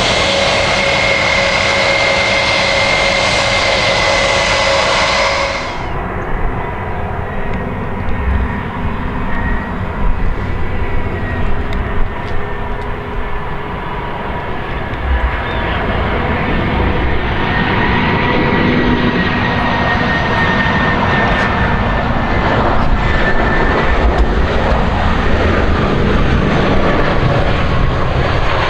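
Jet airliner engines whining with steady tones as the aircraft taxies. About six seconds in, the sound cuts to a second airliner arriving, its engine noise growing louder toward the end.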